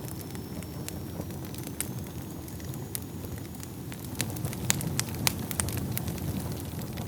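Wood fire burning in a fireplace: a steady low rumble of flames with sharp, irregular crackles and pops from the burning logs, which come more often and louder from about four seconds in.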